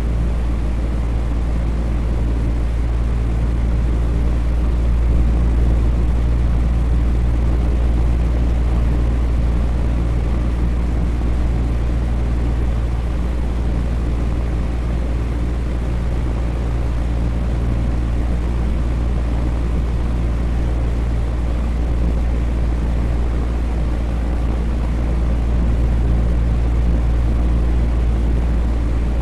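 Electric fan running steadily: a constant low hum with an even airy whoosh over it, unchanging throughout.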